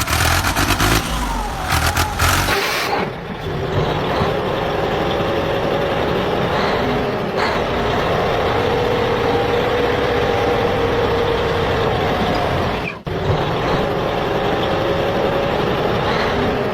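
Steady truck motor noise, a continuous drone with a held whining tone, cutting out for a moment about 13 seconds in.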